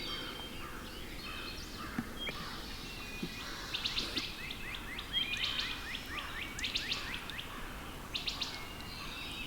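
Several small songbirds singing, with runs of quick, short chirps about four seconds in, again about seven seconds in, and once more near the end.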